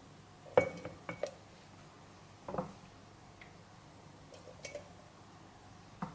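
Kitchen dishes and utensils clinking and knocking. There is a quick cluster of sharp clinks with a short ring about half a second in, another clink a couple of seconds later, and lighter taps toward the end.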